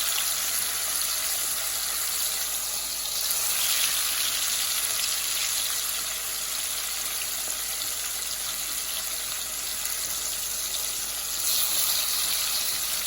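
Seasoning frying in hot oil and curry in a pot, a steady sizzle.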